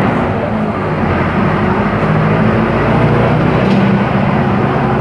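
Diesel engine of a Mercedes-Benz OF-1418 bus chassis with a Neobus Spectrum body, running steadily with a low, even drone.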